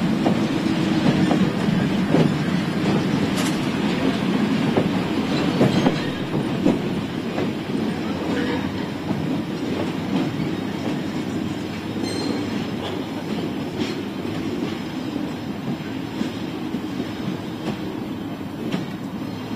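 Heavy rail wagons rolling slowly past: a steady rumble of steel wheels on the track with scattered clicks over the rail joints, slowly fading.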